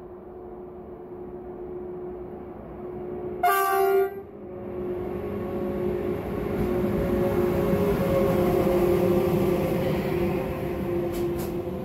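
DB Class 152 electric locomotive gives one short horn blast about three and a half seconds in as it approaches with a container freight train. Then the running noise of the locomotive and container wagons on the rails grows louder as the train passes close by.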